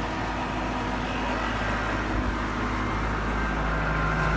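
Tractor engine running steadily with a grain bag unloader and its auger working, a constant drone that grows slightly louder toward the end.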